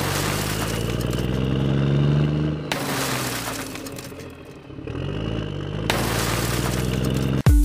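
Motor engine revving under load, its pitch climbing and then dropping, with loud bursts of hiss over it. Music with sharp beats cuts in at the very end.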